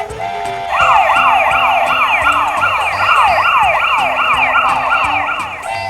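Battery-powered toy vehicle's electronic siren, going in quick repeated rising sweeps about two and a half times a second. It starts about a second in and cuts off near the end.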